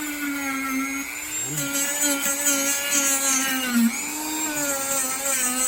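Small high-speed rotary grinding tool whining steadily as it buffs rubber on a tractor tire's sidewall, cleaning it up for a patch; the pitch sags and recovers as it is pressed into the rubber, most deeply a little before 4 seconds in.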